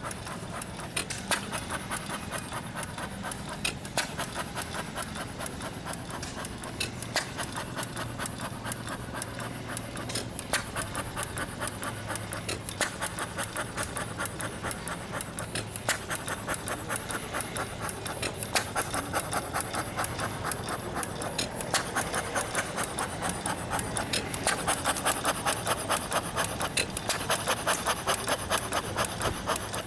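Half-scale Fairbanks Morse 'T' hit-and-miss engine running: a fast, even clatter of about four or five clicks a second, with a sharper beat every few seconds. The clatter grows louder about two-thirds of the way through.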